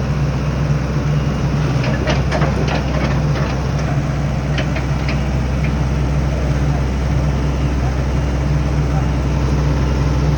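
A heavy vehicle engine running steadily at low revs, with a few short knocks or clicks a couple of seconds in.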